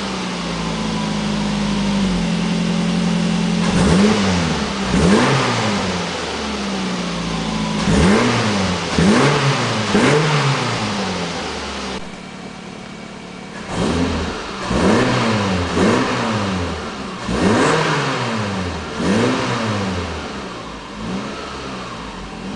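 2008 Ford Focus 1.8's four-cylinder petrol engine breathing through a Duramas aftermarket exhaust and a K&N air filter, idling steadily at first, then revved in a series of quick throttle blips, each rising and falling back to idle. About halfway through it is heard from inside the cabin and is quieter.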